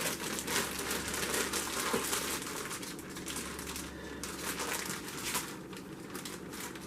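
Plastic bag crinkling and rustling, with a steady stream of small irregular crackles, as shredded carrots are shaken out of it.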